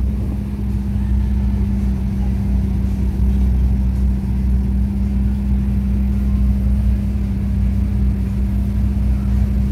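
Sports-car engines idling: a steady low drone that holds level with no revving.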